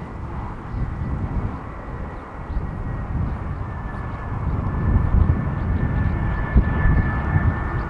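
Airbus A320-214's CFM56 jet engines running. A low rumble grows louder about halfway through, and a steady high whine comes in on top of it.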